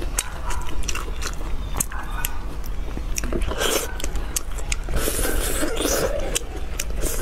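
Close-up biting and chewing of saucy braised pork, with many sharp, wet mouth clicks.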